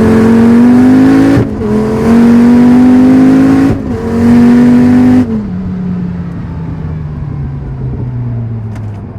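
Twin-turbo Dodge Viper 8.4-litre V10 at full throttle, its note climbing, with two quick upshifts about a second and a half and just under four seconds in. About five seconds in the throttle closes and the engine note falls away steadily as the car slows.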